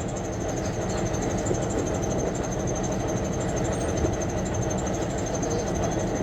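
A motor running steadily, giving a constant mechanical drone with a faint high pulsing whine.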